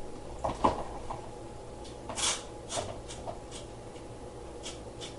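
Wood knocking on wood, then a run of short scrapes: beehive frames being pried loose and worked in a wooden hive box during a honey harvest.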